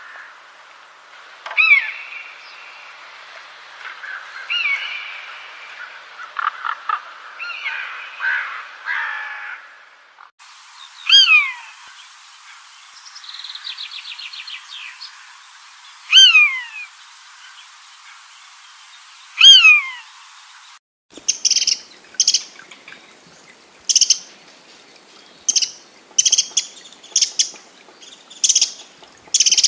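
Wild birds singing and calling, the sound changing abruptly twice: first a varied warbling song, then three loud downward-sliding calls with a short rapid trill between them, then a run of short high chirps about once a second.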